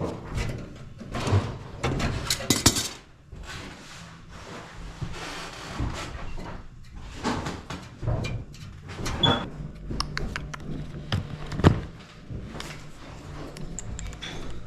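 Irregular knocks and clatter of objects being handled and set down, some loud and sharp, over a faint low hum.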